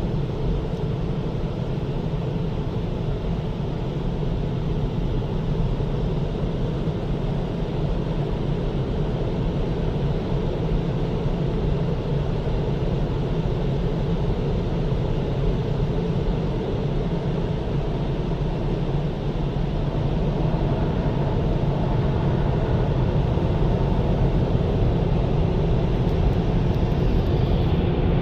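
Istobal M'Wash 3 car wash dryer blowers (contour top dryer and side dryers) running steadily, blowing air over the car, heard from inside the car. The noise grows a little louder in the last several seconds.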